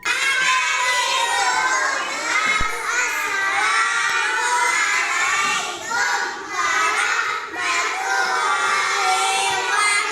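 A crowd of many children's voices shouting and cheering together, starting suddenly and running on without a break.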